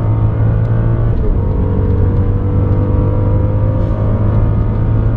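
Car engine under hard acceleration, its pitch climbing slowly, with a short drop at a gear change about a second in before it climbs again.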